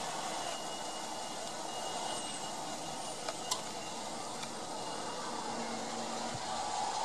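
Steady noise of a Dodge Durango police vehicle idling, with two light clicks about three and a half seconds in.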